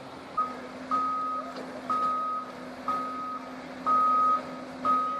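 Heavy-equipment backup alarm beeping about once a second, each beep a single steady tone about half a second long, over the steady hum of a diesel engine running. It sounds while the machine travels in reverse.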